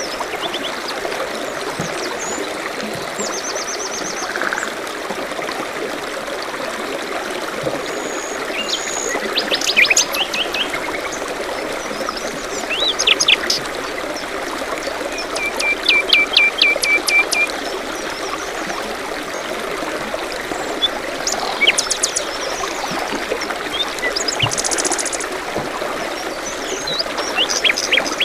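A stream running steadily, with several songbirds calling over it: short trills, high chirps and, in the middle, a quick run of about ten repeated notes.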